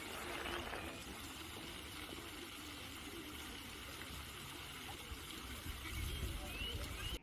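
Garden fountain water splashing steadily, with a few faint bird chirps near the end.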